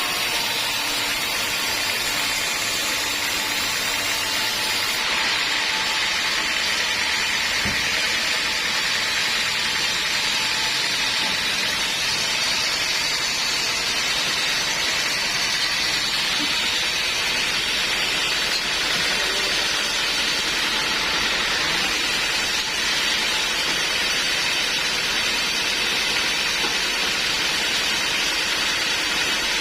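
Homemade band sawmill running steadily through a teak log, a constant even noise with no breaks.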